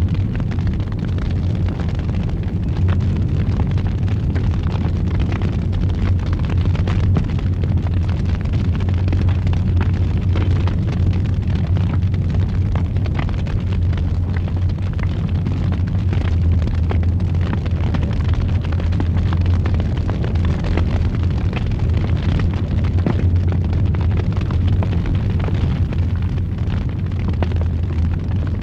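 Wood fire burning in a fireplace: a steady deep rumble with frequent small crackles and pops throughout.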